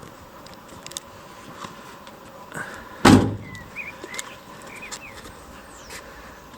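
A car door of a stripped-out Honda S2000 race car slamming shut once, about three seconds in: a single solid thud that dies away quickly.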